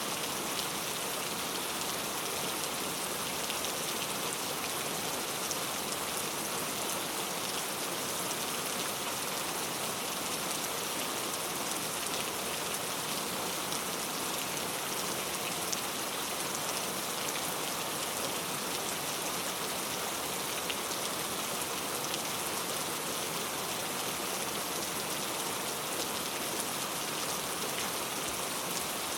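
Steady heavy rain falling, a dense even hiss with countless fine drop ticks, strongest in the high end.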